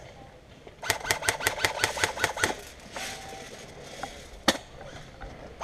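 Airsoft electric gun firing a rapid burst of about seven shots a second for roughly two seconds, its gearbox motor whining under the shots. A single sharp shot follows near the end.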